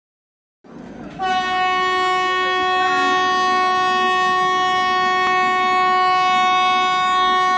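Vande Bharat Express train horn sounding one long, loud, steady multi-tone blast, starting about a second in and held for over six seconds, over the rumble of the approaching train.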